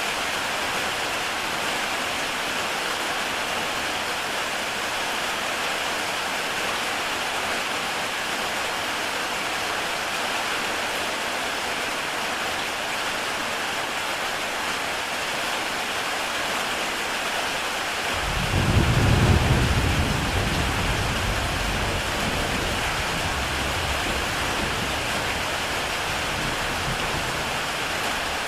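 Heavy rain falling steadily on a tile roof. About two-thirds of the way through, a low rumble of thunder comes in suddenly, is loudest for a second or two, then fades slowly.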